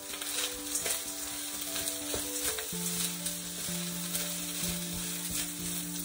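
Fried rice with peas and sausage sizzling in a hot wok while a spatula stirs it, with small scrapes and clicks among the sizzle. Soft background music with held notes plays underneath.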